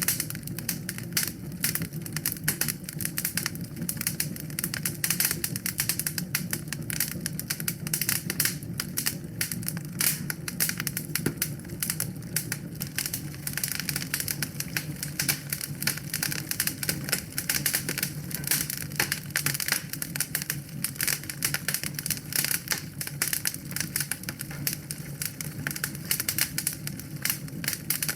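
Wood fire crackling in a fireplace: dense, irregular snaps and pops over a low, steady rumble.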